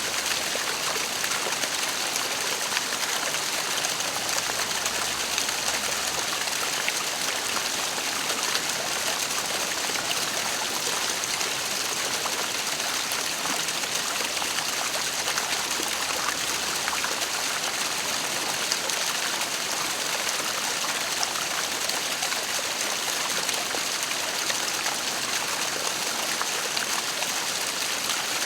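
Waterfall: a steady rush of falling and splashing water with no let-up.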